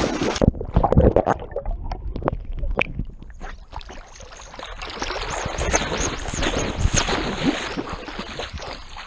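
Water splashing and sloshing around a swimming dog: irregular splashes at first, becoming a steadier sloshing about halfway through.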